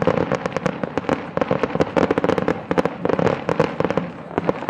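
A star mine fireworks barrage: shells bursting in quick succession, many sharp bangs and crackles a second, overlapping without a pause.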